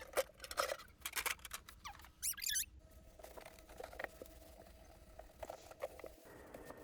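Wet sponge scrubbing the plastic inside of a refrigerator: scattered rubbing and small knocks, with a short run of high squeaks a little over two seconds in, then quieter.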